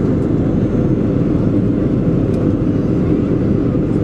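Steady low cabin roar inside a Boeing 737-400 on approach with the flaps extending: airflow noise and the CFM56 engines, even and unbroken.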